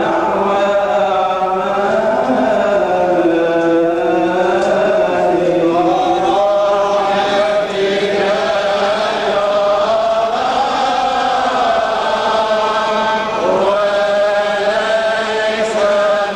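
Coptic liturgical chant: a voice drawing out a long wordless run of held notes that glide slowly up and down without a break.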